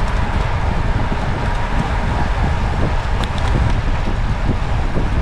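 Steady rumbling wind noise on the microphone with road noise from travelling along a road.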